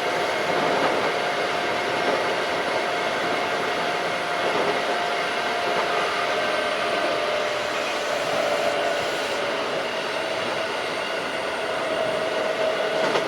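Keikyu 1500 series field-chopper electric train running: a steady rumble of wheels and running gear with a whine that sinks slowly in pitch.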